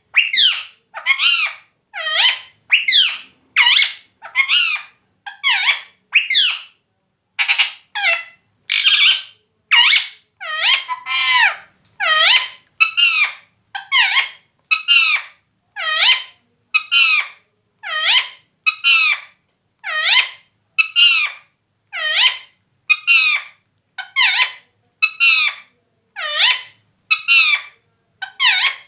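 Pet parrot giving the same short call over and over, about once a second, each call a quick sweep in pitch.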